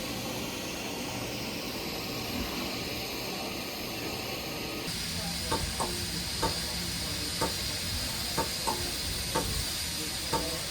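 Steady hiss of steam from a standing steam locomotive. About halfway through, the sound shifts abruptly to a brighter hiss, and a run of short, sharp clicks follows, roughly one a second.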